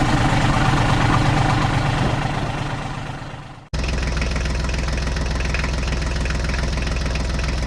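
Tractor engine idling with a steady low knock. The sound fades away over the first few seconds, then cuts abruptly to another steady, deeper engine idle.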